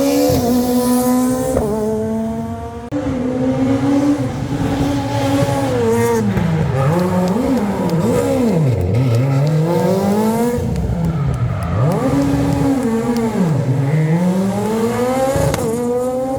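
Rally car engine revving hard through a slalom, with tyres squealing. The revs hold high at first, then drop low and climb again several times in the second half as the car brakes and accelerates between the cones.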